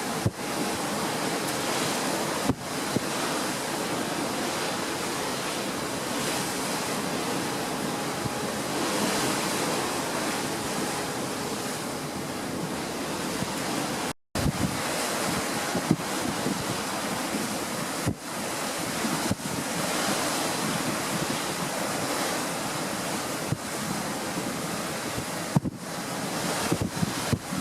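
Steady rushing noise of wind and sea, with wind buffeting the microphone. The sound drops out completely for a moment about halfway through.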